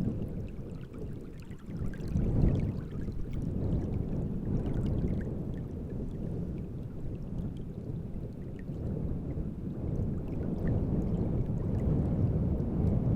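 Wind gusting over open water: a low rumble that swells and eases every few seconds, with small waves lapping and splashing.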